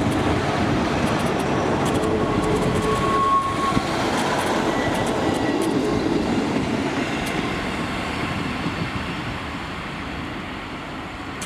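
East Midlands Trains Class 158 diesel multiple unit passing close by, its wheels clicking over the rail joints, then fading steadily as it pulls away.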